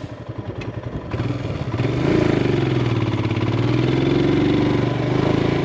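Motorcycle engine running under way, growing louder about a second or two in, then holding a steady pulsing note that drifts a little up and down in pitch.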